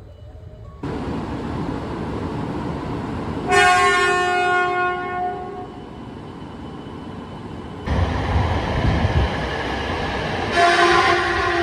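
Train running noise, then a train horn blast about three and a half seconds in that lasts about two seconds and fades. A deep rumble from the train follows, and a second horn blast starts near the end.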